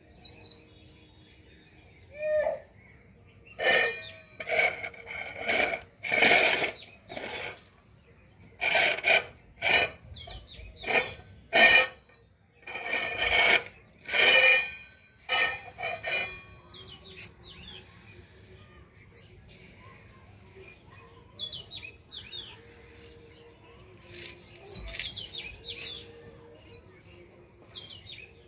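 Small birds chirping now and then over a faint steady hum. Through the first half, loud scraping noises come in short bursts about every half second and are the loudest thing heard; their source is unclear.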